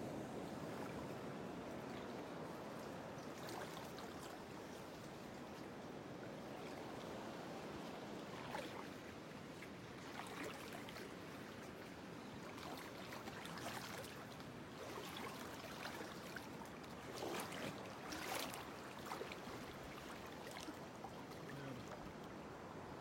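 Faint moving water: a steady low wash with scattered small splashes and trickles.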